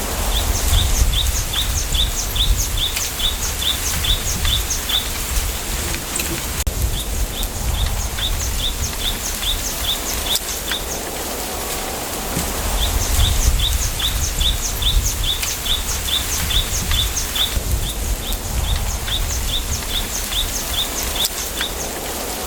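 Bamboo forest ambience: a small bird repeats a quick, high chirp about four times a second in runs of four to five seconds with short pauses between, over a low, gusty rumble of wind.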